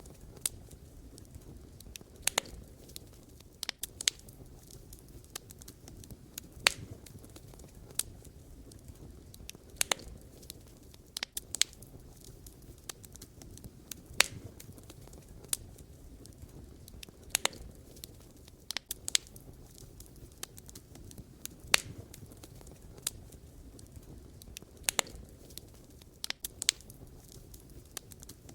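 Wood fire burning, with a low steady rumble under irregular sharp crackles and pops of burning logs, a few every couple of seconds.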